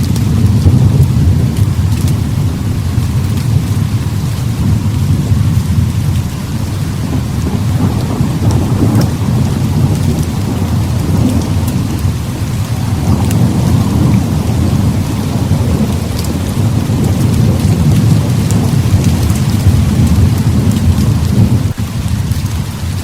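Heavy rain pouring steadily, with rolling thunder rumbling low and continuously beneath it, swelling a few times.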